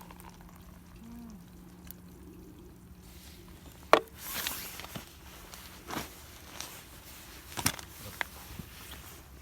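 Campfire grilling sounds: a few sharp clicks and pops, the loudest about four seconds in followed by a short hiss, over a low steady hum that stops about six seconds in.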